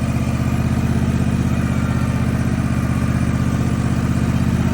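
Farm vehicle engine idling steadily, a low, even chugging.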